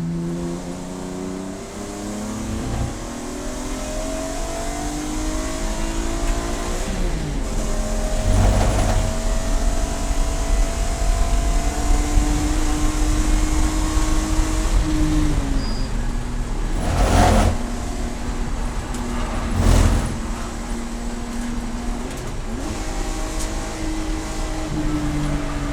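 Race car engine running hard at speed, revs climbing and then dropping sharply several times as it shifts and brakes. Three short, loud bursts of noise cut across it.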